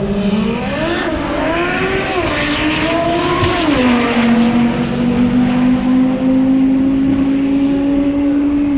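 Drag-racing car's engine revving and accelerating on the strip. The pitch climbs and wavers for a few seconds, drops sharply about four seconds in, then holds nearly steady while rising slowly.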